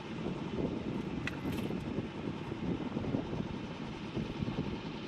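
Fishing boat under way at trolling speed: a steady low rumble of motor and water with wind buffeting the microphone, and a couple of light clicks a little over a second in.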